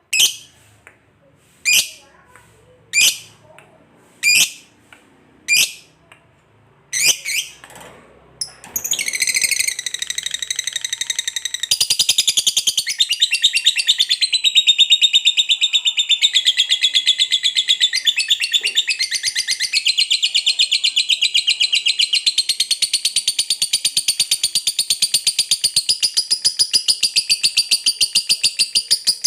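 Lovebird calling: a string of short, sharp chirps a little over a second apart, then from about nine seconds in a long, unbroken, rapid chattering trill, the 'ngekek panjang' (long chatter) prized in fighter lovebirds.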